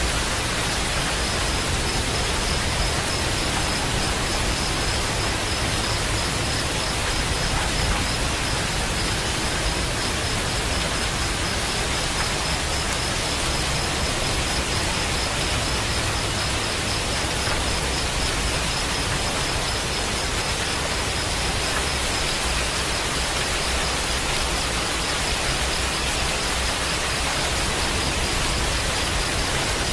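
Steady rain, an even, unbroken hiss, with a faint high-pitched fast-pulsing tone running through it from about a second in.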